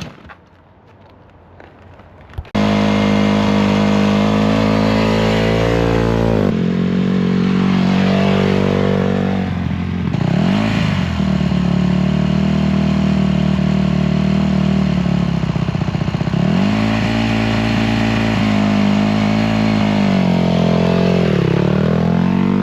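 Honda dirt bike engine cuts in suddenly about two and a half seconds in and runs loudly, its revs dipping and picking up again four times.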